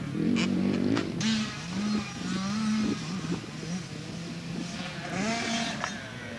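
Two-stroke motocross bike engine (Yamaha YZ85) revving hard and easing off over and over as the rider works the throttle and shifts, its pitch climbing and dropping several times.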